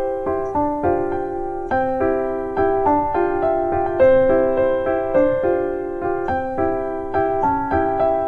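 Background music: gentle piano playing a steady series of notes.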